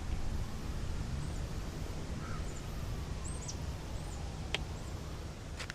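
Outdoor ambience: a steady low rumble with a few short, high bird chirps now and then, and two sharp clicks near the end.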